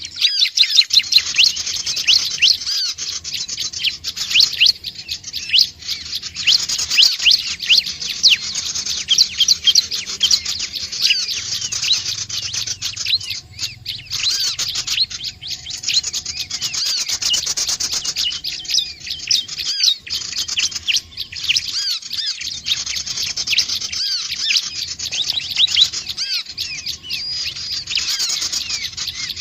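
Prinia (ciblek / prinjak) calling: a fast, high-pitched stream of sharp chirps that goes on almost without pause, broken only by a few short gaps.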